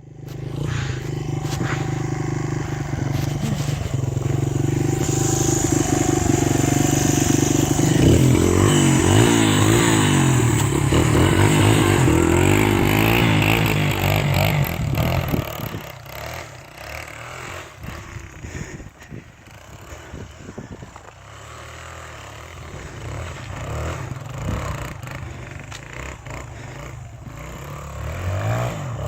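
Honda XR100 dirt bike's single-cylinder four-stroke engine running and being revved, its pitch rising and falling repeatedly through the middle. About halfway through it becomes quieter, then grows louder again near the end.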